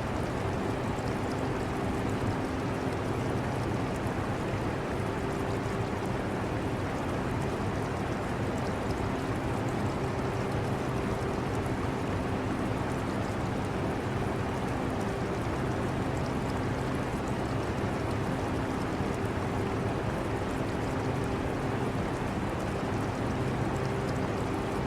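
Air conditioner running steadily, a smooth rush of air over a low hum of a few steady tones, mixed with the trickle of aquarium water.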